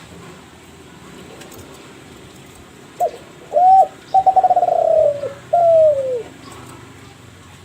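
Kelantan derkuku (spotted dove) giving one cooing phrase about three seconds in: two short notes, a rolling trill that falls in pitch, then a long falling coo.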